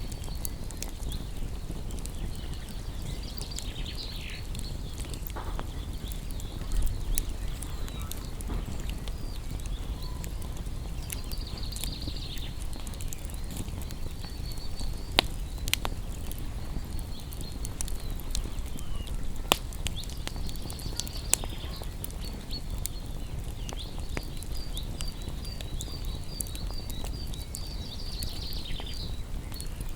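Wood campfire burning with a low steady rumble and scattered crackles, a few sharp pops standing out in the middle. High chirping animal calls come and go in the background.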